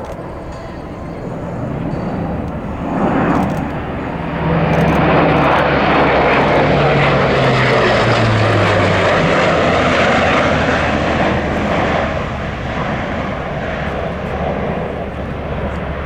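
Airbus A400M Atlas four-engine turboprop making a low flyby: the drone of its engines and propellers swells, peaks with its low tones dropping in pitch as it passes, then fades.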